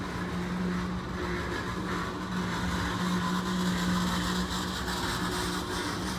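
Freight train of tank cars rolling past: a steady rumble of wheels on rail with a constant low drone underneath.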